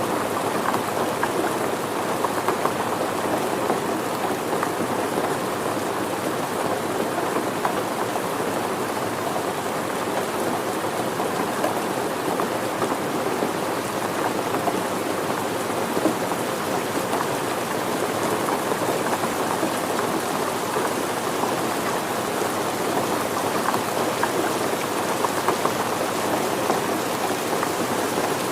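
Steady rain falling on surfaces, a dense even patter of many small drops with no let-up.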